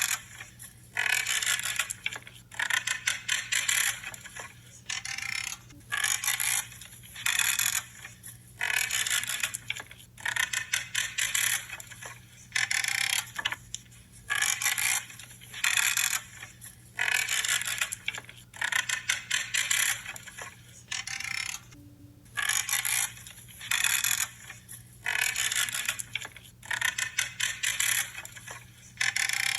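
Branches being cut: a crunchy creaking with each cut, in short bursts repeated about once a second.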